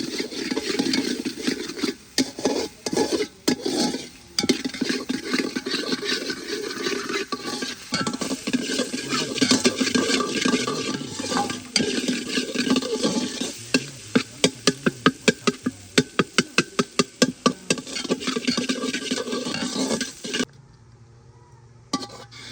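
Food sizzling in a cooking pot while it is stirred with a spoon, with scraping strokes against the pan; in the second half the strokes come fast and regular, about four a second. The sound cuts off abruptly near the end.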